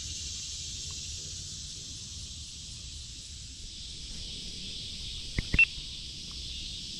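Steady high-pitched insect chorus, crickets trilling. Three or four sharp clicks come close together about five and a half seconds in.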